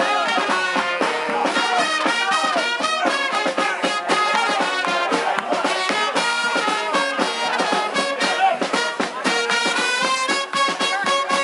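A brass band playing, with trumpets and trombones carrying the tune.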